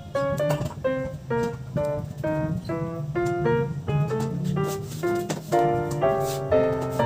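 Background piano music: a melody of separate notes, several a second.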